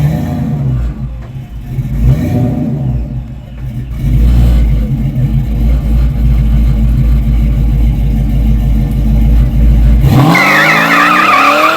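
A car engine rumbling with a few blips of the throttle, then revving up hard about ten seconds in, with a high wavering squeal over the rising engine note.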